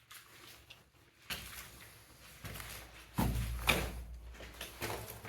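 A few scattered knocks and scuffs over a low rumble that sets in about halfway through.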